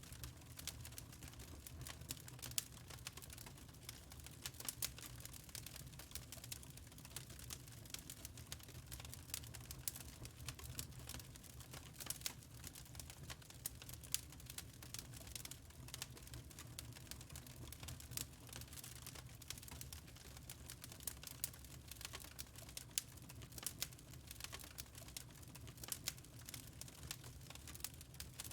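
Wood fire crackling in a fireplace: many small irregular pops and snaps over a steady low rumble of the flames.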